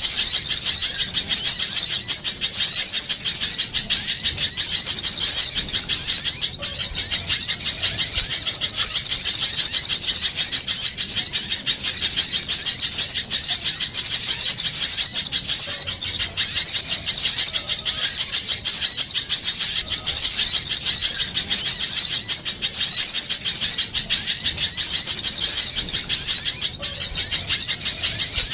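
A dense, unbroken chorus of small songbirds twittering and chirping rapidly at high pitch, with many short calls overlapping: a bird-lure recording of agitated small birds.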